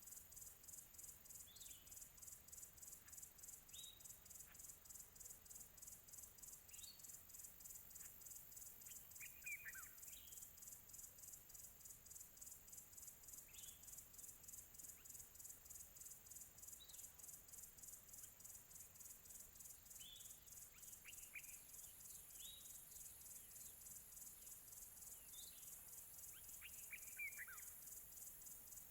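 Faint bird chirps: short falling notes every few seconds, with a longer run of chirps about ten seconds in and again near the end. Behind them is a steady, high, rapidly pulsing chirring, like insects.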